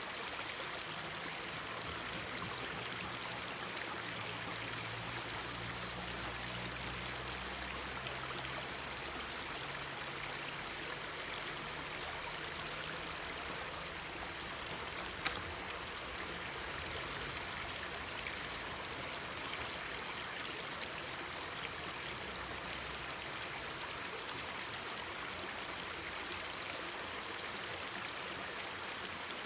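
Mountain stream babbling steadily, with a single sharp pop about halfway through.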